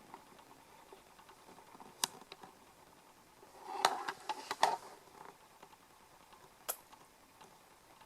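Quiet room with a few faint sharp clicks and a short cluster of clicks and rustling about four seconds in.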